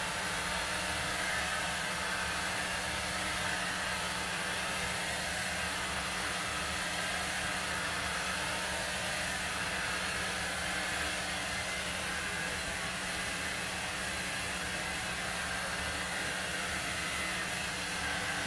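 ANWA 1000W hot-air dryer brush running: a steady rush of blown air over a low motor hum, unchanging throughout.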